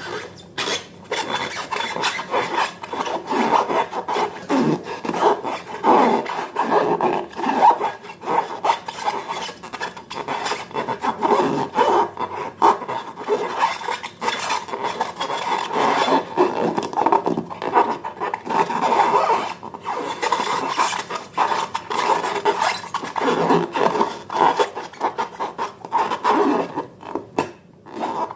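Slime being mixed and worked: continuous, irregular scraping and squishing with many small clicks.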